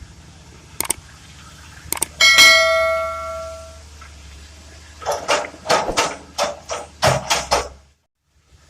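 Heavy steel clang during excavator loading of a dump truck, ringing on like a bell for about a second and a half, then a quick run of about ten sharp metal knocks and clatters, over the low steady drone of a diesel engine.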